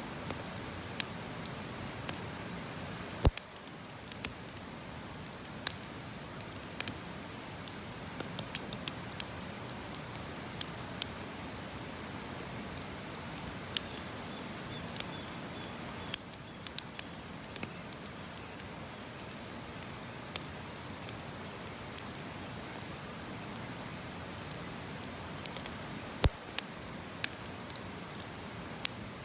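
Wood campfire crackling: irregular sharp pops and snaps over a steady low hiss of burning.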